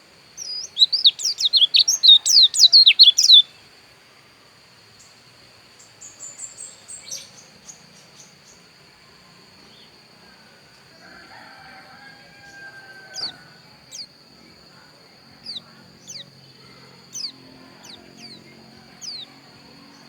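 Pleci dakun (white-eye) singing: a loud, fast burst of high twittering for about three seconds near the start, a few soft notes later, then single short downward-sliding chirps about once a second. A steady high tone runs underneath.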